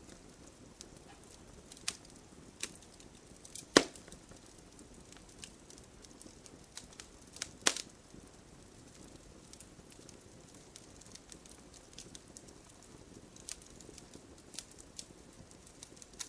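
Wood fire burning in a fireplace: a soft hiss with scattered sharp crackles and two loud pops, about four seconds in and near eight seconds in.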